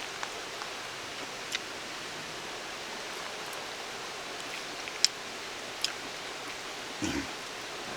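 Steady rush of a mountain valley stream, with a few sharp clicks and a brief soft thump near the end.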